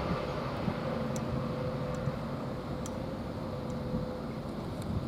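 Greater Anglia Class 745 electric multiple unit moving away after passing through the station at speed: a low rumble with a steady whine, fading slightly, and a few faint high ticks.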